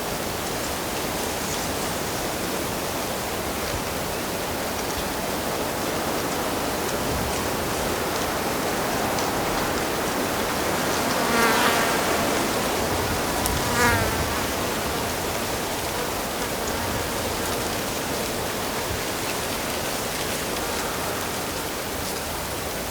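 Steady rush of flowing stream water. A flying insect buzzes past twice a little past the middle, about two seconds apart.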